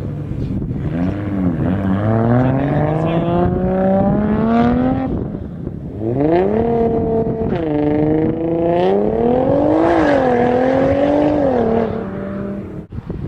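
Car engine accelerating hard, its pitch climbing, falling back and climbing again several times, as at gear changes, before it fades away near the end.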